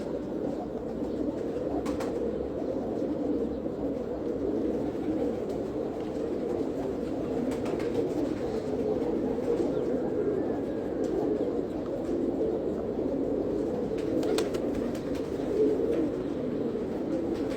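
A flock of domestic pigeons cooing, many birds overlapping in a continuous low murmur, with a few faint clicks.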